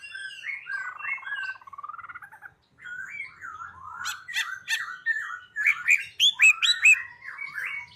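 A songbird singing a fast, varied song of chirps and whistled up-and-down notes, with a buzzy rattle in the first couple of seconds and louder, sharper notes in the second half.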